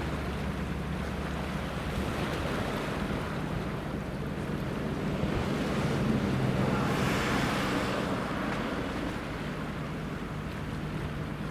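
A low, steady boat-engine hum under the wash of waves, with wind on the microphone. A louder rush of water swells up about seven seconds in and then dies away.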